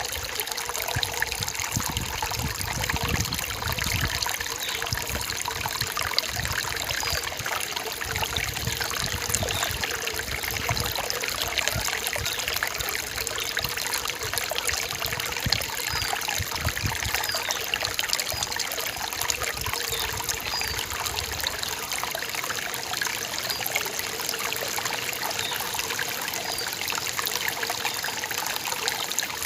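Forest stream trickling steadily.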